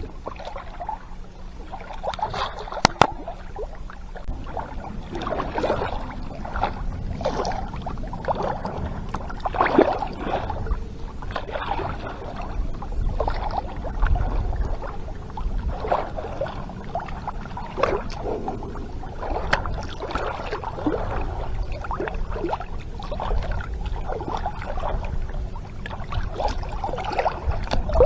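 Water sloshing and gurgling against a sailboat's hull in irregular surges, over a low steady rumble. One sharp click about three seconds in.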